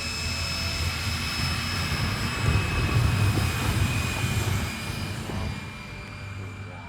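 Radio-controlled C-17 Globemaster model jet in flight: a steady high whine over a rushing noise that grows louder through the middle and fades toward the end as it passes.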